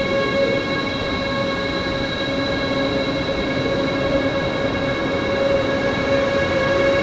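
Train in the station with a steady, unchanging whine made of several pitched tones over a low rumble.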